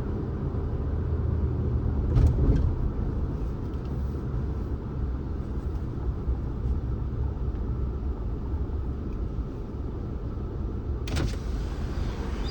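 Steady low rumble of a car being driven, road and engine noise, with a louder thump about two seconds in and a rise in hiss near the end.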